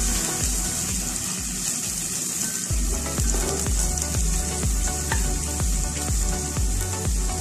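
Chopped aromatics sizzling in hot oil in a metal pot while being stirred with a wooden spatula, a steady high hiss. Background music with a steady beat of about two thumps a second runs underneath, dropping out briefly between about one and a half and nearly three seconds in.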